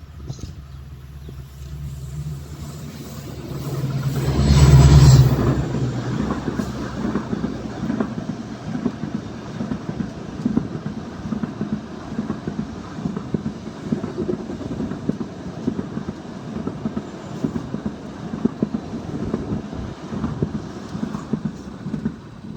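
Diesel locomotive running past at speed, its engine drone building to a loud peak about five seconds in, followed by the train's coaches rolling by with a rapid, continuous clickety-clack of wheels on the rails.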